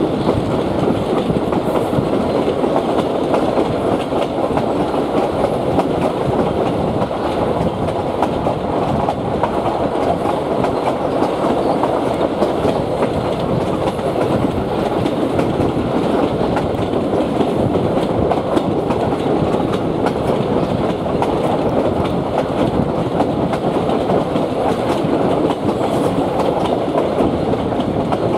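Passenger train running at speed, heard from one of its coaches: a steady, loud noise of the wheels rolling on the rails.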